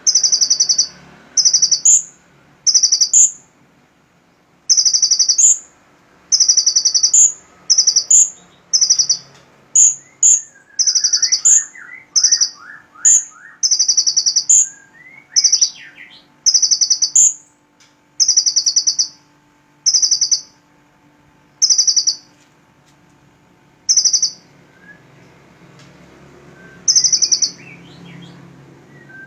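A bird repeating a short, high, buzzy call about once a second, some twenty times with a few pauses. Fainter, quick rising chirps come in through the middle.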